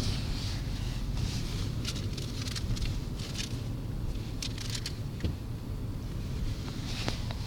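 Car driving at low speed, a steady engine and road rumble with scattered light ticks and clicks at irregular intervals.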